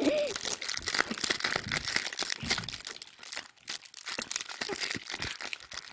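Plastic candy wrapper crinkling and crackling as it is handled, a dense run of irregular little crackles with a few soft thumps in the middle.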